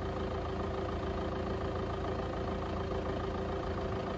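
VW Golf 2.0 TDI Pumpe-Düse diesel engine idling steadily.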